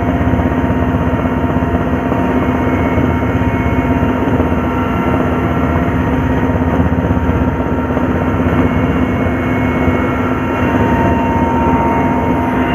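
Steady drone of an aircraft's motors or rotors filming from the air, a constant hum with a higher whine over it and no change in pitch.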